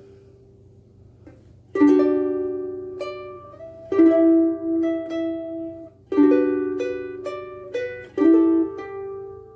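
Cocobolo soprano ukulele strung with higher-tension Oli Uke Logic strings being played: chords plucked and left ringing, with single notes picked between them. After a short lull at the start, a new chord comes about every two seconds.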